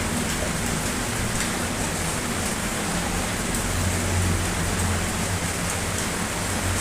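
Steady rain falling: an even hiss with scattered louder drop ticks and a low steady rumble underneath.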